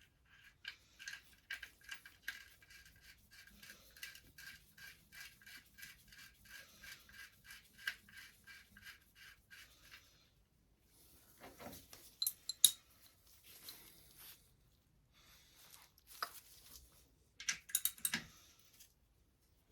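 Ratchet wrench clicking in a steady run of about four clicks a second as a bolt is wound in during a motorcycle oil change. After that come a few light metal clinks and clatter, with two sharper knocks of tools against metal.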